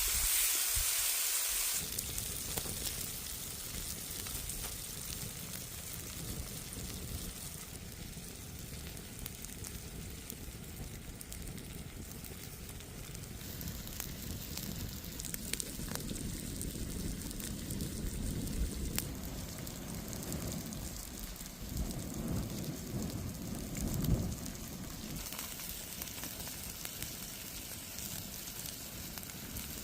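Food sizzling over a campfire: a bright hiss for about the first two seconds, then a quieter steady hiss with scattered crackles and a few low knocks a little past the middle.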